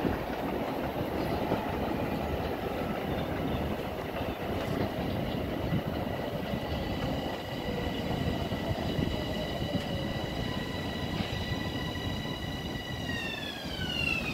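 LIRR M7 electric multiple-unit train approaching on the rails with a steady rumble of wheels on track. A high whine from its traction motors holds steady, then drops in pitch near the end as the train slows.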